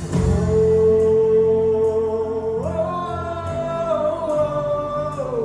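Live gospel worship music: a singer holds long notes between lines of the song, stepping up in pitch about halfway through, over a steady band accompaniment.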